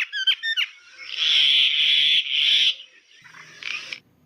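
Myna calling: a few quick downward-sliding whistles, then a long harsh rasping screech of about a second and a half, and a shorter rasp near the end.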